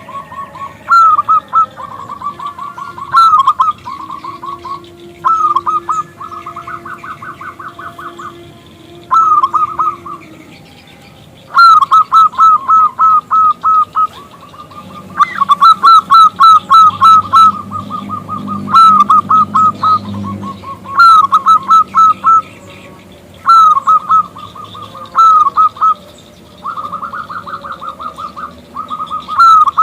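Zebra dove (perkutut) song: repeated phrases of quick, staccato cooing notes, each phrase a rapid run of short notes lasting one to three seconds, with short pauses between.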